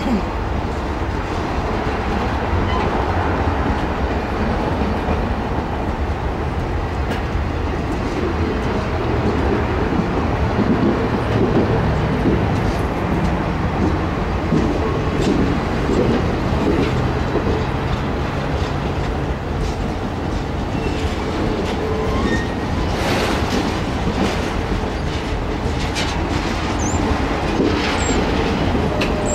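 Stainless-steel passenger cars of a circus train rolling slowly past at close range: a steady rumble of steel wheels on rail with clickety-clack over the rail joints, and several sharper clacks in the last few seconds.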